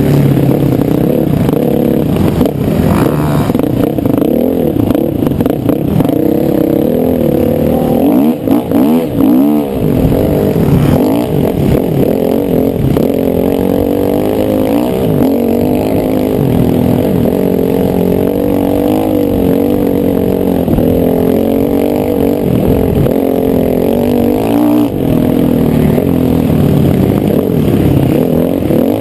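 Motocross bike engine revving up and down over and over as it is ridden hard. The throttle drops off briefly about eight seconds in, then picks up again.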